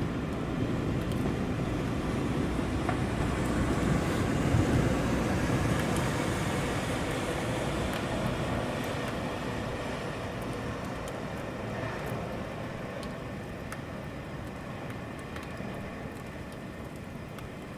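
Rainy city street ambience: a steady low rumble over a hiss of rain, slowly fading.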